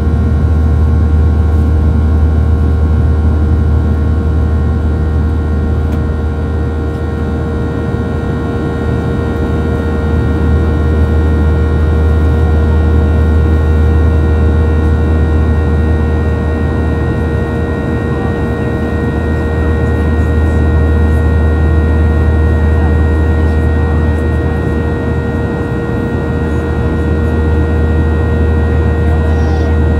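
Cabin noise of a Boeing 737-800 with CFM56 engines running at steady thrust: a loud, steady low drone with several steady whining tones above it, swelling and easing slightly.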